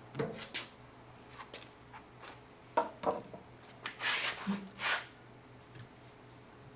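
Scattered knocks and clicks of hand work on car parts, the sharpest two a little under halfway through, then two short scraping hisses, over a steady low hum.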